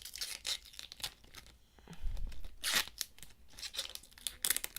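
Plastic packaging crinkling and tearing as it is pulled and handled, in short irregular crackly bursts, with a dull bump about two seconds in.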